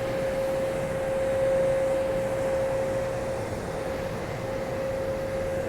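Steady mechanical noise with a constant, unchanging whine running under it, as from running machinery.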